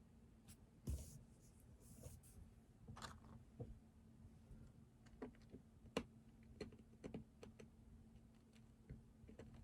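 Faint, sparse, irregular keystrokes on a computer keyboard, with a few softer taps and rustles among them, over a steady low hum.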